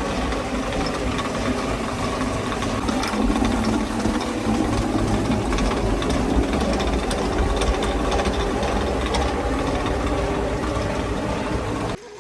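An engine-driven machine running steadily and loudly, with a rough, knocking quality; it cuts off abruptly near the end.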